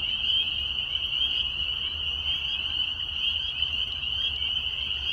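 A dense chorus of many frogs calling continuously in one high, shrill band, unbroken throughout.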